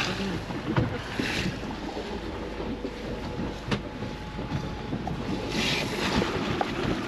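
Ranger Tug R-27 OB motoring slowly: outboard engine running with a low rumble, water washing along the hull, and wind buffeting the microphone in two brief gusts about a second in and near six seconds.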